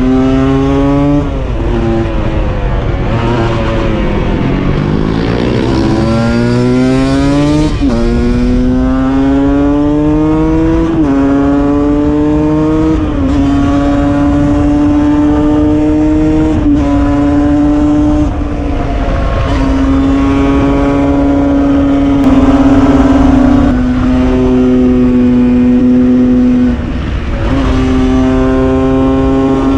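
Husqvarna SM 125 supermoto with a Scalvini exhaust, held at high revs and shifting up through the gears: the note climbs, then drops sharply at each shift, several times. For a few seconds early on a second engine's note sweeps across it.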